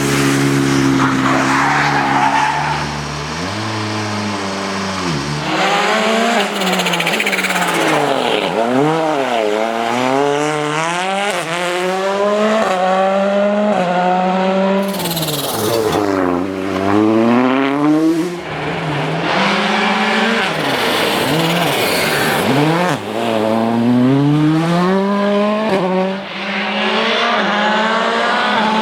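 Volkswagen Polo R WRC rally car's turbocharged engine running flat out. It holds a fairly steady note for the first few seconds, then its pitch climbs and drops again and again as it accelerates, brakes and shifts through the gears.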